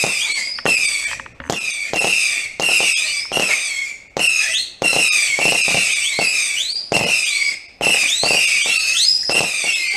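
A consumer firework barrage fires shot after shot, roughly one or two a second. Each shot is a sharp crack followed by a high, hissing whistle that rises and wavers in pitch, with brief lulls about four and nearly eight seconds in.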